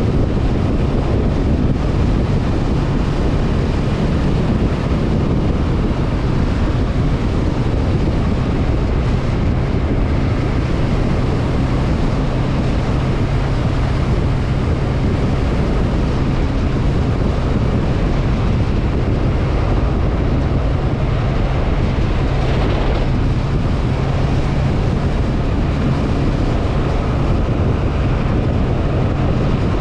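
Honda CB500F parallel-twin engine running steadily under way, with wind rushing over the microphone.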